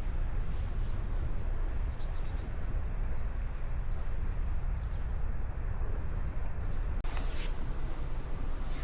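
A songbird singing short wavy whistled phrases three times over a steady low rushing noise, with a few quick high ticks after the first phrase. About seven seconds in, the sound changes abruptly and a brief louder rush follows.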